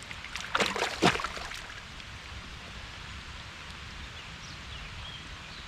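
Steady hiss of rain on water. About half a second in comes a short flurry of sharp clicks and knocks, the loudest a single hard knock at about one second.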